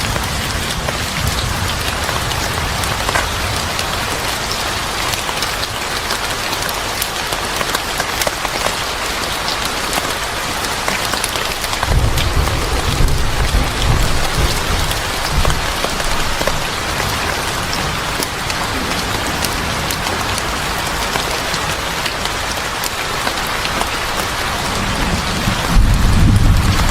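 Steady heavy rain with scattered sharp drop ticks. A low rumble of thunder comes in about twelve seconds in for a few seconds, and again near the end.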